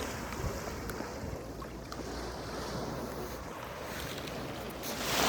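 Sea waves washing in, with wind rumbling on the microphone; a wave surges louder near the end.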